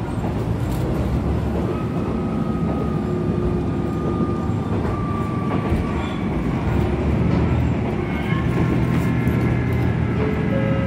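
Train running, heard from inside the passenger car: a steady low rumble of the wheels on the track with a low hum, and faint whine tones that step up near the end.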